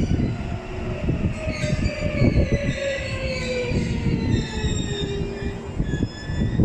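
E657-series limited express electric train slowing as it runs into the station. Its motor whine falls steadily in pitch as it brakes, over the rumble and knocking of wheels on rails and points.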